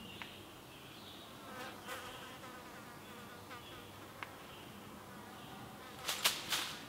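Insects buzzing, with birds chirping in short repeated notes, and a quick cluster of sharp clacks about six seconds in.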